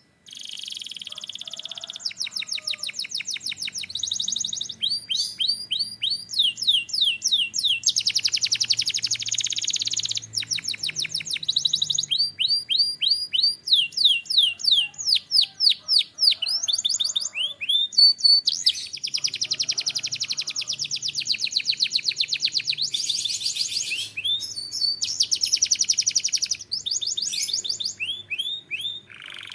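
Domestic canary singing a long, continuous song of fast trills and tours, rapid repeated notes that switch to a new phrase every second or two.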